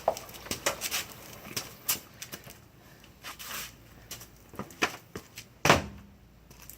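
Scattered light knocks and clicks, irregular, with one louder thump a little before the end.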